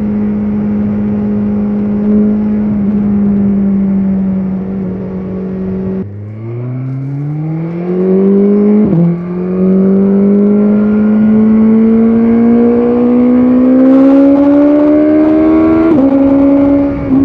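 BMW S1000RR's inline-four engine, heard from on the bike, holding steady revs at first. About six seconds in the throttle is closed and the revs drop sharply, then the engine pulls hard with the pitch climbing fast. Revs dip briefly near nine seconds and again near the end, as at quick upshifts, with a long steady climb in pitch between them.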